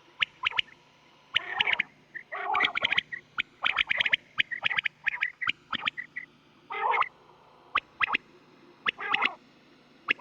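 Recorded quail (batair) calling over and over: short, sharp notes in quick clusters of two or three, with a few longer rough bursts, over a faint steady low hum. It is a deep, thick-voiced call of the kind played to lure quail when hunting.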